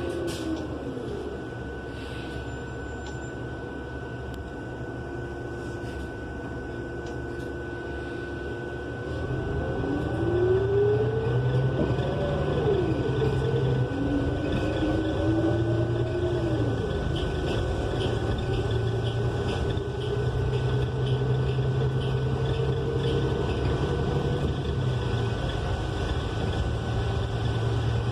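Inside a New Flyer XN35 transit bus, its Cummins Westport L9N natural-gas engine runs quietly at low speed. About nine seconds in, it grows louder as the bus accelerates, the engine and Allison transmission rising and falling in pitch through the gear changes before settling into a steady drone. A thin steady high whine runs underneath throughout.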